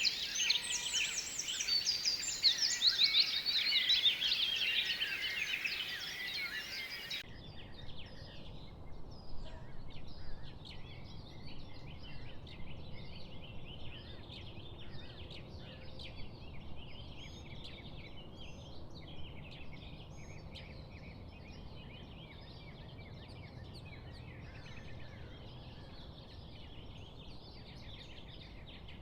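Birds chirping and trilling in dense, fast, overlapping calls. About seven seconds in the sound changes abruptly to a quieter, continuous chorus of many birds chirping.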